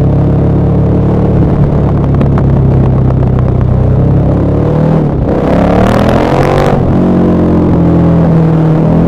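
KTM 1190 Adventure R's LC8 V-twin engine through a Wings exhaust, running steadily with a patch of crackling, then revving up briefly about halfway through before its pitch drops back down.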